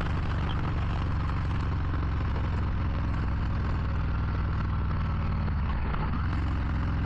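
Harley-Davidson Low Rider ST's Milwaukee-Eight 117 V-twin running steadily under way, heard from the rider's seat. Its note dips briefly about six seconds in, then settles at a slightly different pitch.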